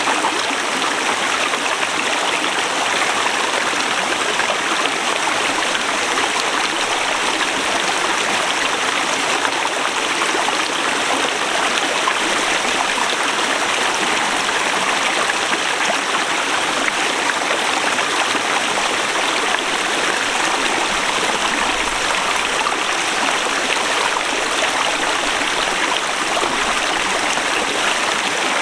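Forest river rushing steadily over rocks, an even, unbroken water roar.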